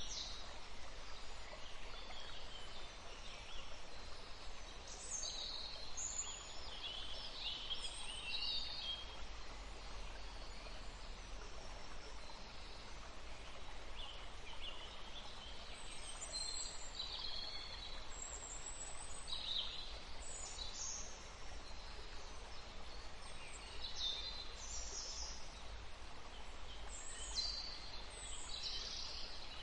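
Birds chirping and singing: many short, high calls and quick warbles, scattered irregularly over a steady background hiss and low hum.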